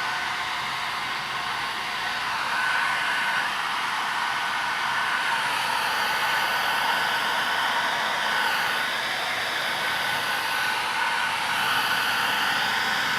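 Handheld hair dryer running steadily while drying hair, a rushing blow with a faint high whine from its fan motor.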